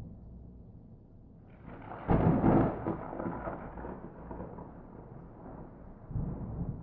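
Thunder without rain: a sharp crack about two seconds in rolls off into a fading rumble, and a second low rumble swells near the end.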